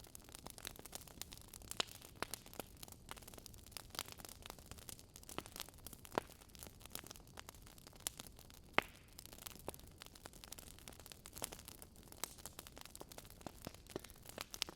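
Wood fire crackling in a fireplace: irregular sharp pops and snaps over a low steady hiss, with a few louder pops about 2, 6 and 9 seconds in.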